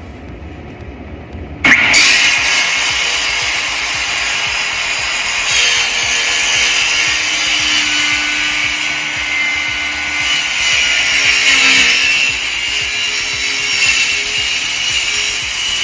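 Power tool cutting 1/8-inch aluminum sheet, starting suddenly about two seconds in and running steadily with a harsh, high-pitched noise.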